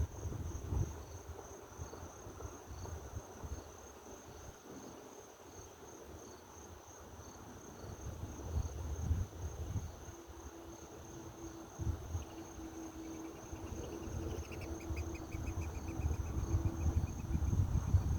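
Insects, likely crickets, chirping in a steady high-pitched drone over a fluctuating low rumble. In the second half a rapid trill and a faint steady hum join in for a few seconds.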